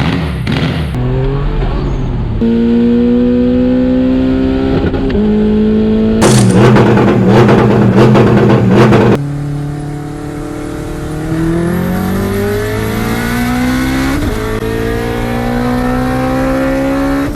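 Car engine accelerating hard through the gears. Its pitch climbs steadily and drops back at each upshift, about five seconds in, near nine seconds, and again near fourteen seconds. A loud rushing noise covers it for about three seconds midway.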